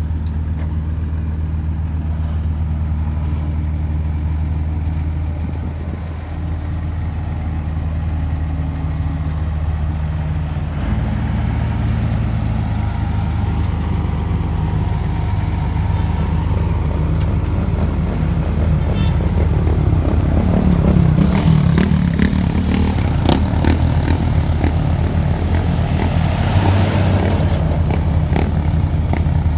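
Heavy diesel paving machinery running steadily, with a low engine drone. The engine note shifts about eleven seconds in and grows louder and rougher, with some clatter, from about twenty seconds.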